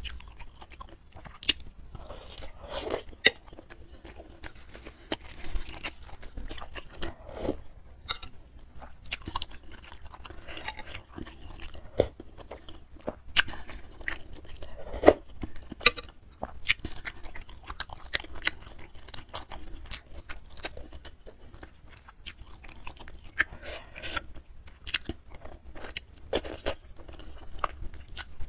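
Close-miked chewing and biting of a spicy noodle soup with a large bakso meatball and chicken feet: wet mouth sounds with irregular sharp clicks throughout.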